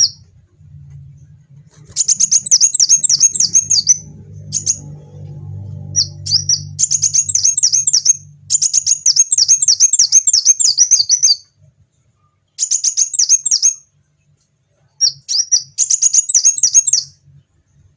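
Kolibri wulung, a small sunbird, singing: rapid, high, twittering chirps strung into phrases of one to three seconds, separated by short pauses and a few brief single notes. A faint low hum sits under the song through the first half.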